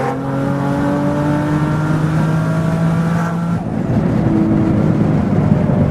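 Turbocharged V6 of a 2004 Infiniti G35 coupe under hard acceleration, heard from inside the cabin. The engine note climbs steadily through the gears and drops with an upshift right at the start and again about three and a half seconds in. It is running at only about half boost, which the owner puts down to an exhaust leak letting the pressure escape.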